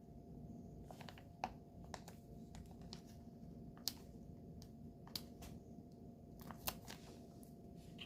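Scattered light clicks and taps from nail-art tools and product pots being handled, coming at irregular moments over a faint steady hum.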